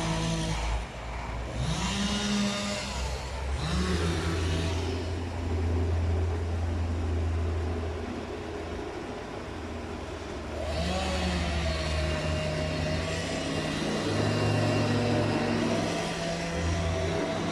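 Engine running, revving up several times with its pitch rising, over a steady low drone.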